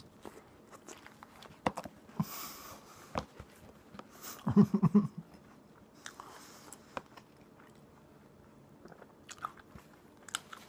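Close-miked biting and chewing of a grilled tuna melt sandwich on toasted bread: scattered soft crunches and wet mouth clicks, loudest in a cluster a little before halfway.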